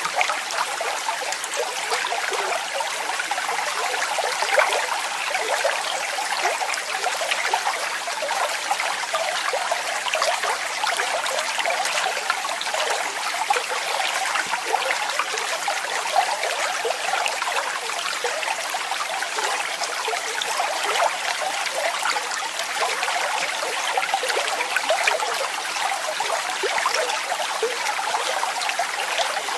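Running water splashing and gurgling steadily, a falling stream or small waterfall with many small splashes over a continuous rush.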